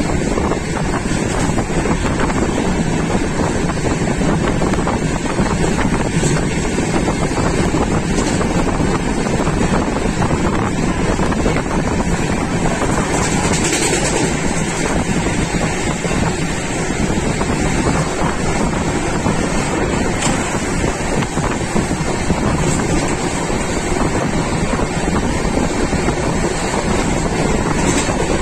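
Moving passenger train heard from onboard: a steady, loud running rumble with wind buffeting the microphone, and a few faint clicks scattered through.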